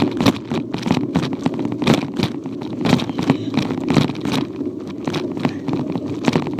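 A child's bicycle rolling along a path, picked up by a phone crudely mounted on its handlebars: irregular rattling knocks over a steady rumble.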